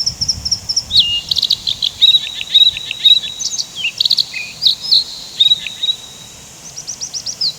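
Birds calling: many short, varied chirps and whistled notes, some sliding up or down, with a quick run of high notes near the end. A fast, even chirping, likely an insect, opens the first second, and a faint steady high tone runs under the middle.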